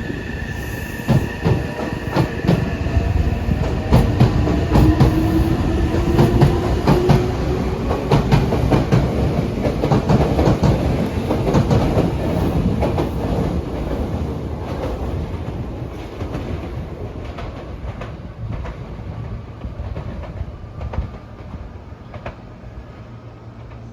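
Meitetsu 2300-series electric train pulling out and accelerating away, its traction motors whining up in pitch over many wheel clicks from the rail joints. It is loudest a few seconds in and fades steadily as the train leaves.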